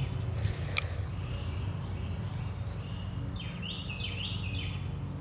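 Outdoor ambience by a creek: a songbird sings two short phrases of falling notes about two seconds apart over a steady low hum, with a single sharp click a little under a second in.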